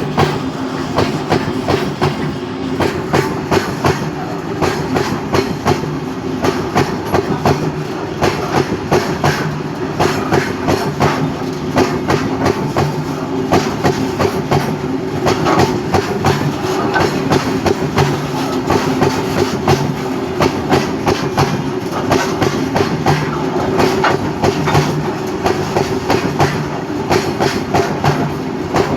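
A train running at speed, its wheels clattering steadily and rhythmically over the rail joints over a continuous rumble.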